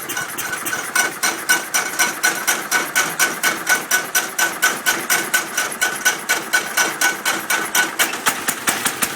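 IH Cub Cadet 128's single-cylinder Kohler engine being cranked over by its starter, with the choke on for a cold start. It makes an even chugging of about four compression strokes a second and has not yet caught.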